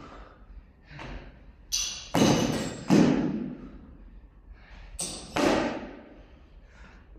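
Barbell and iron weight plates clanking and thudding: a series of heavy impacts in two groups, some with a metallic ring, echoing in a large hall.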